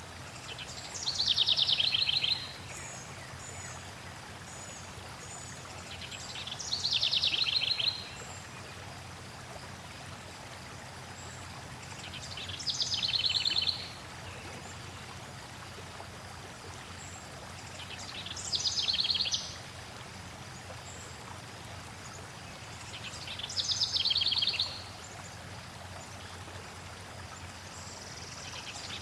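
A songbird repeating the same short, fast trilled song that falls in pitch, five times at intervals of about five to six seconds, over a steady hiss of flowing water. Faint high chips sound between the songs.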